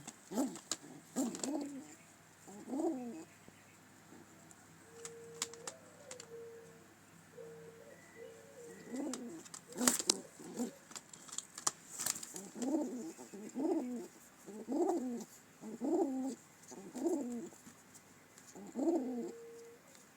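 Pigeons cooing in a coop, with repeated low, wavering coos and a run of about six in the second half. A few sharp clicks are mixed in.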